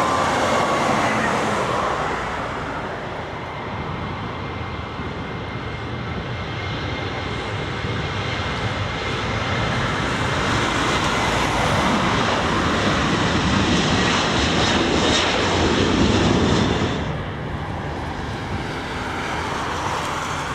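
Jet airliner engines roaring past, the noise swelling to a peak and then falling away suddenly near the end.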